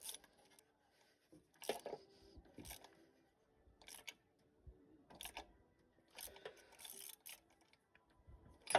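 Faint, scattered clicks and scrapes of a ratchet and spark plug socket being worked to tighten a new spark plug, a short burst every half second to a second.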